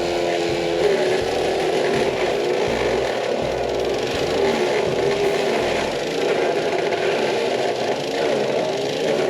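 Engine-driven work equipment running steadily, its engine note wavering slightly up and down.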